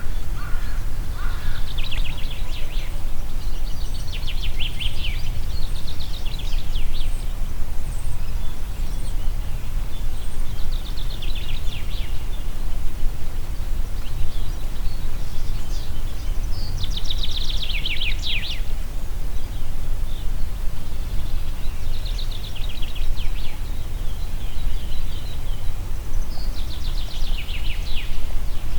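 Steady low wind rumble, with a songbird repeating short, rapid trilled phrases every few seconds, each phrase dropping in pitch at its end.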